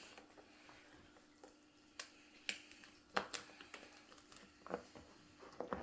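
Lobster tail shell being cracked and cut open: a series of sharp, irregular clicks and cracks, more of them in the second half, over a faint steady hum.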